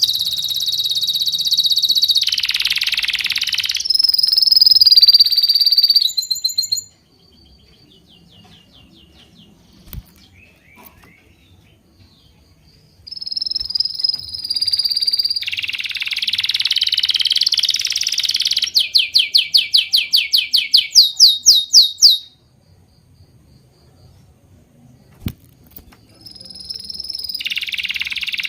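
Songbirds singing loud, high-pitched songs and trills, with two quieter stretches of only faint chirping. About two-thirds of the way through, one bird gives a rapid run of about a dozen repeated notes.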